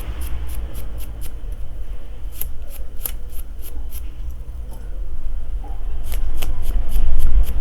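A dry brush scrubbing the circuit board of a Samsung A50 phone in short, irregular scratchy strokes, cleaning dirt and liquid residue off without solvent. A steady low hum runs underneath and grows louder near the end.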